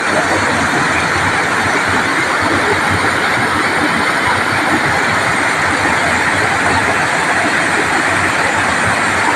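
Waterfall's falling water: a loud, steady rushing noise.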